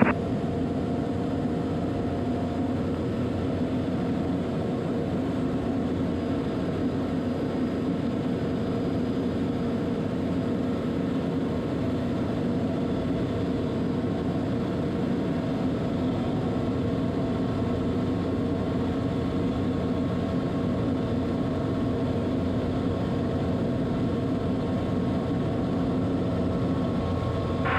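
Steady drone of the Soloy 206's Rolls-Royce Allison turboprop engine and propeller heard inside the cabin in flight, a constant mix of several steady tones over a rushing background.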